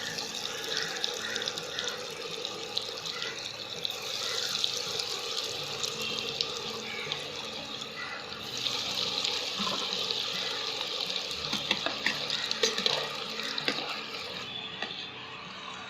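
Batter-coated potato fingers deep-frying in hot oil, a steady sizzle thick with fine crackles. The sizzle swells about four seconds in and again a little past halfway.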